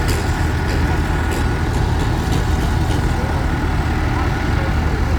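Heavy vehicle engines running steadily with a deep, even low rumble.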